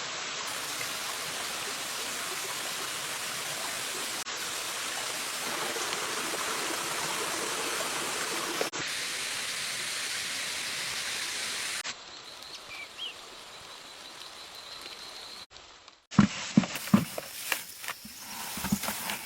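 Stream water rushing steadily, cut off abruptly twice and then fading to a quieter background about two-thirds of the way in. Near the end come several short, dull knocks.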